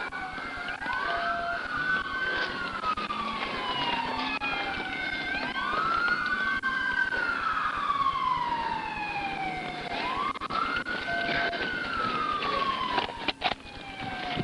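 Police car sirens wailing, each cycle a quick rise in pitch and a longer fall over a few seconds, with more than one siren overlapping out of step.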